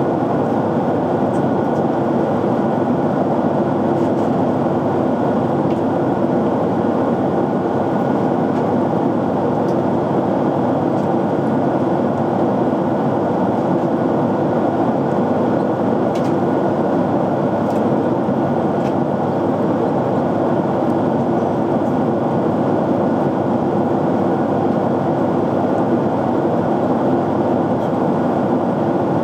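Jet airliner cabin noise in flight: a steady, even rush of airflow and engines, with a faint constant high tone running through it.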